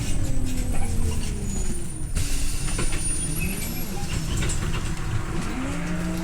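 Scania OmniLink I city bus under way, heard from inside the passenger cabin: low engine rumble with a drivetrain whine whose pitch rises and falls several times as the bus changes speed.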